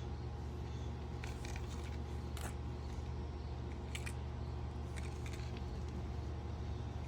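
Small toy vehicles being handled, giving a few light clicks and knocks, over a steady low hum.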